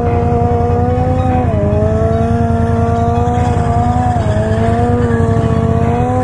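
Yamaha MT-07 parallel-twin with a full Akrapovic titanium exhaust running at low, fairly steady revs while the bike rolls slowly, its pitch dipping briefly with the throttle about a second and a half in and again about four seconds in.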